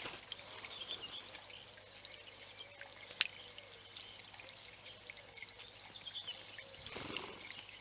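Forest ambience: small birds chirping and calling over a steady rush of running water. There is a single sharp click about three seconds in and a brief dull rustle near the end.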